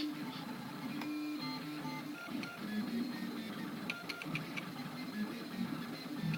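3D printer's stepper motors whining as the axes move, the tone jumping between pitches with every change of move, with a few short ticks about four seconds in.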